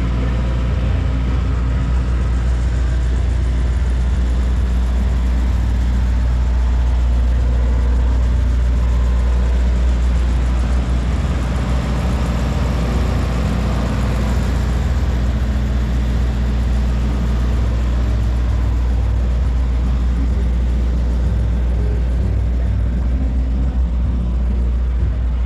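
A heavy engine idling steadily, a constant low hum.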